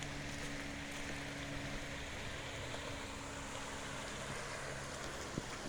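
Small stream running steadily over stones. A faint low hum fades out about four seconds in, and there is a single click near the end.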